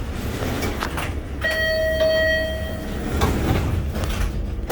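Orange Line subway car's electronic door chime: one steady tone held for about a second and a half, over the low rumble of the train car.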